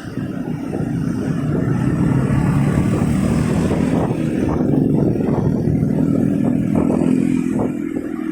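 Motorcycle engine running while riding through traffic, its note holding fairly steady and rising slightly after the middle.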